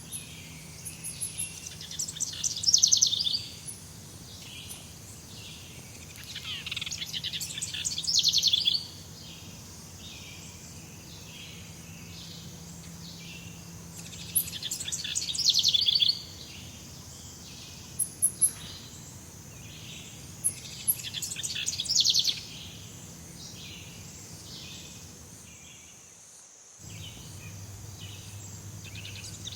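A jungle bird sings the same ringing, quickening trill over and over, about every six seconds, against a steady high-pitched drone of insects. The sound cuts out briefly near the end and comes back with a faint low hum.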